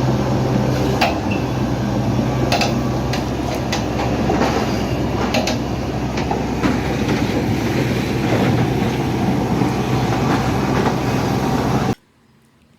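Loud, steady rumble of a heavy vehicle in motion, with a low hum and scattered clanks and knocks; it cuts off abruptly near the end.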